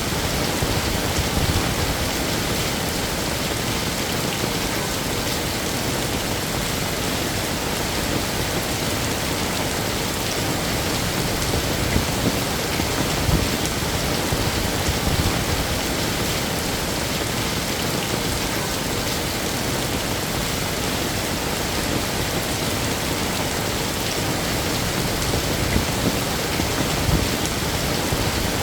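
Heavy rain falling steadily on hard surfaces, an even hiss with a low rumble beneath it and now and then a slightly louder patter of drops.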